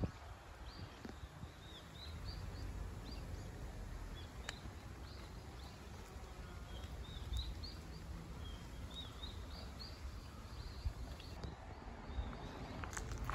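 Birds chirping in the trees, many short high calls repeating throughout over a low steady rumble.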